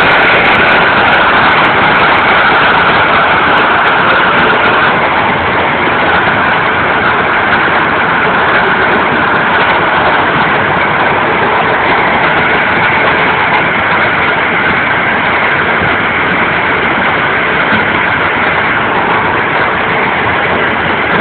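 Hail falling hard in a heavy hail storm: a loud, dense, steady din of hailstones striking, easing slightly after about five seconds.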